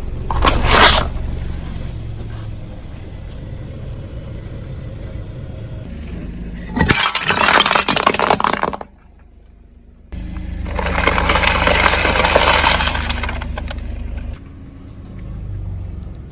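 Car tyre rolling over and crushing objects while the engine idles: a short crunch near the start, then two longer bouts of crackling, breaking crunches, the first cut off suddenly.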